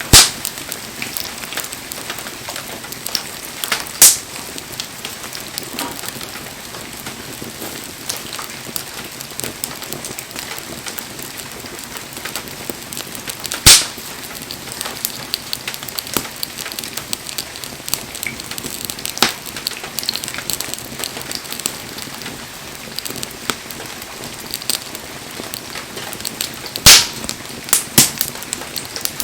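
Wood bonfire crackling steadily, with a few loud sharp pops from the burning firewood.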